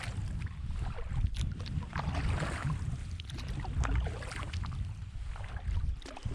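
A canoe on the water: irregular paddle splashes and water sounds against a steady rumble of wind on the microphone.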